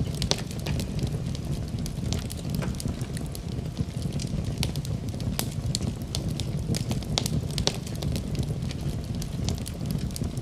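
Wood fire burning in a fireplace: a steady low rumble of flames with many quick, irregular crackles and pops from the burning logs.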